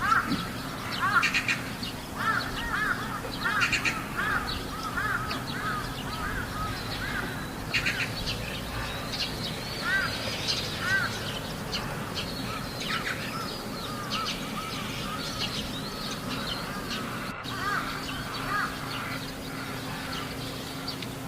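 Crows cawing over and over, several birds overlapping, louder in the first few seconds and then a little softer.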